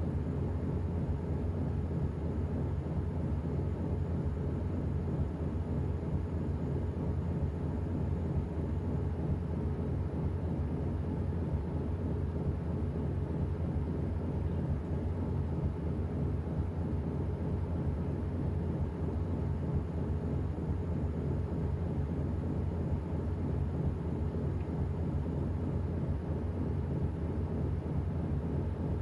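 Washing machine running with a steady low hum and a whooshing wash noise that does not change over the whole stretch.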